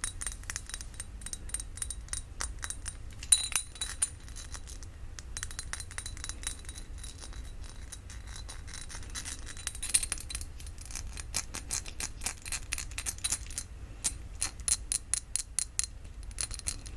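Fingernails tapping quickly on a glass perfume bottle: runs of crisp clicks with a faint glassy ring. There is a louder clink a little over three seconds in and a sparser stretch in the middle.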